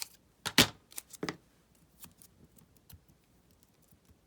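Paper and craft supplies being handled on a tabletop: a sharp knock just over half a second in, a few lighter taps around a second in, then faint scattered rustles and ticks.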